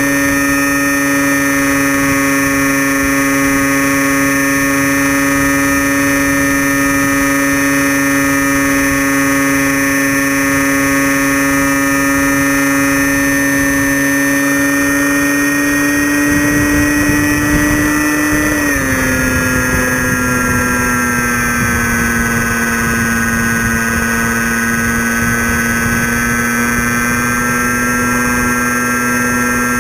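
Crashtesthobby Storm Chaser RC plane's electric motor and propeller running at a steady, high-pitched whine, picked up by a camera mounted on the plane. A little past halfway the pitch drops a step and then holds, while a rougher low rumble comes in underneath.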